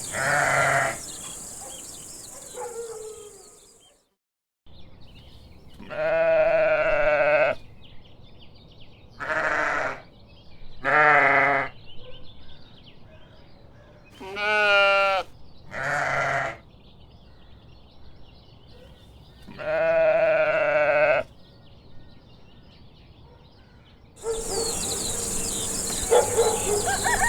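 Sheep bleating: about seven separate bleats, some short and some longer, with a quavering pitch, spaced a few seconds apart.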